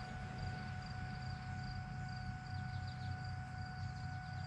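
A quiet, steady low hum with faint crickets chirping high and thin in the background.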